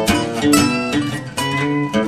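Background music: strummed guitar.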